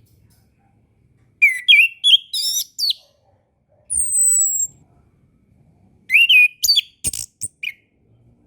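Orange-headed thrush singing: two quick phrases of varied, rapidly changing whistled notes, with a single high, thin, falling whistle between them.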